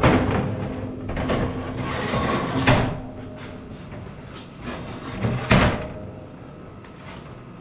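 Heavy steel shelf being set down and shifted into place: a clank, scraping of metal on metal, then two more knocks about three seconds apart.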